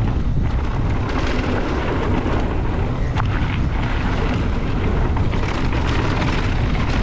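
Strong wind buffeting the microphone as a mountain bike rides fast down a dirt trail, a loud steady rumbling roar mixed with tyre noise on the dirt.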